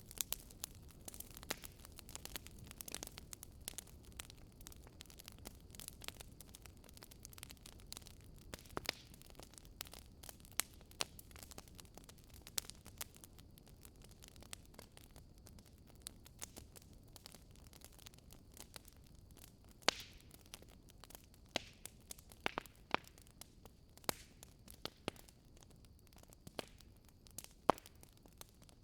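Campfire burning, with irregular sharp crackles and pops of the wood over a low, steady rumble of the flames; a couple of louder snaps come near the end.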